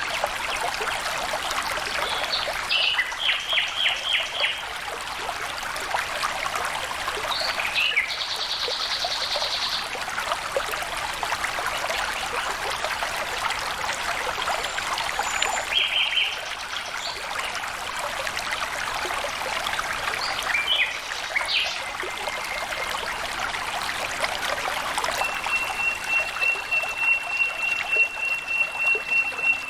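Steady rush of flowing water, with birds calling now and then on top: short pulsed calls, and a rapid trill about eight seconds in. Near the end a long, even, high trill sets in.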